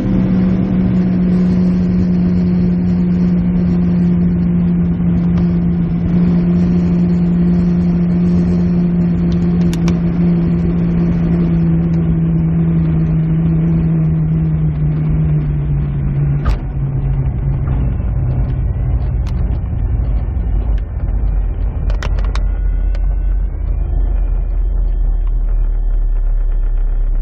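Wind noise in a PW-5 glider's cockpit on the landing approach, with a strong steady drone that drops in pitch partway through as the glider slows. Then come a few sharp knocks and a heavy low rumble, typical of the single wheel rolling on the runway after touchdown.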